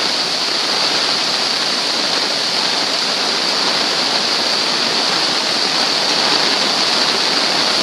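Floodwater of an overflowing creek rushing steadily, a loud continuous roar of fast-moving water.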